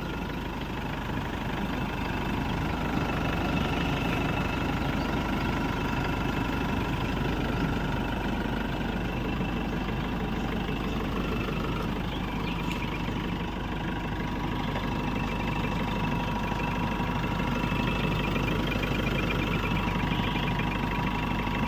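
Mahindra Xylo's mEagle diesel engine idling steadily with a new belt tensioner fitted, under a faint steady whine. The engine and belt drive sound normal, with no abnormal noise.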